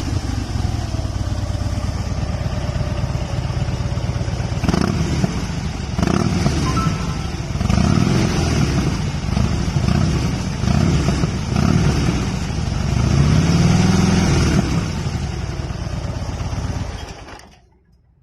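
Harley-Davidson Fat Bob's V-twin engine running, revved in a series of throttle blips that rise and fall in pitch through the middle, then fading out near the end.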